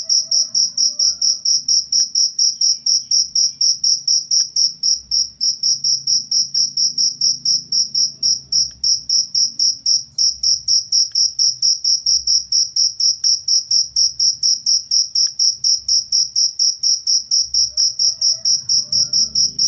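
Cricket chirping steadily and loudly, an even train of high-pitched chirps at about four a second.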